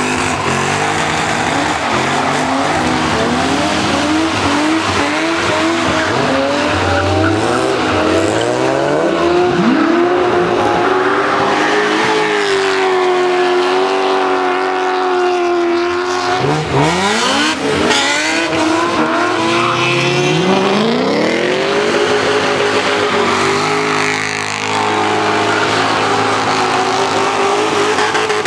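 Drift car engine revving hard through a hillclimb drift, with tyre squeal from the sliding tyres. The revs climb and drop repeatedly, hold high for several seconds in the middle, dip, then rise sharply twice and stay high near the end.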